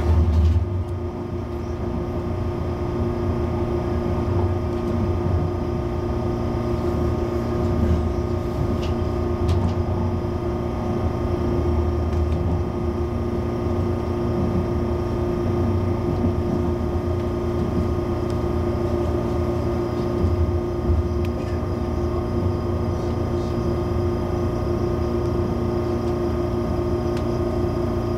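Steady hum of a CAF-built MTR Airport Express train heard from inside the car, with several constant pitches over a low rumble.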